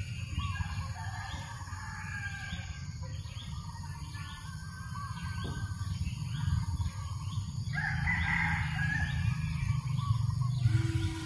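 Birds chirping in a steady series of short calls, about two a second, with a rooster crowing once about eight seconds in, over a low steady rumble.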